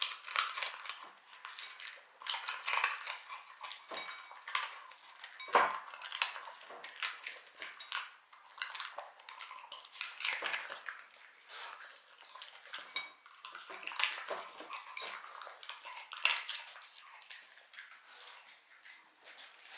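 Shiba Inu eating crunchy dog treats: irregular crunching and sharp clicks, with clinks like a dish or plate.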